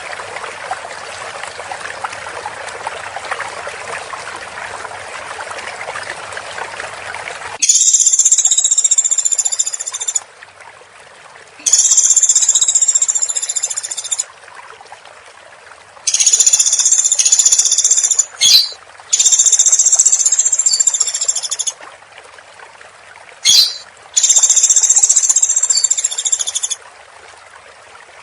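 A steady hiss, then from about seven seconds in a woodpecker gives five long, dense high-pitched rattling calls of two to three seconds each with short pauses between them.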